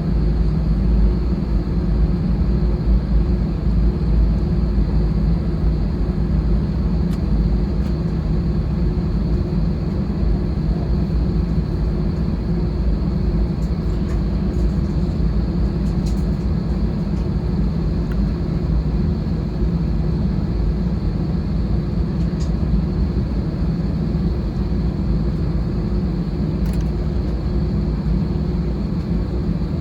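Steady drone inside the cabin of an Airbus A320-216 on the ground before takeoff: its CFM56 jet engines running at low power together with the cabin air-conditioning, a constant low hum with a faint high whine, and a few faint ticks.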